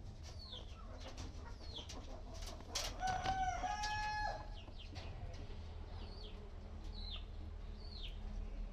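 An Aseel rooster crowing once, a call of about a second and a half starting about three seconds in. Short, high, falling chirps from small birds repeat about once a second around it.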